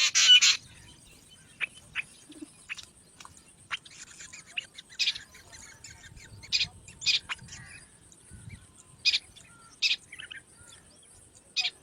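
Birds chirping: a loud flurry of calls right at the start, then short, sharp single chirps, one every second or so.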